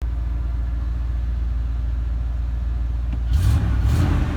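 1992 Chevrolet Silverado's 350 V8 idling steadily through a new exhaust, getting louder and rougher about three seconds in.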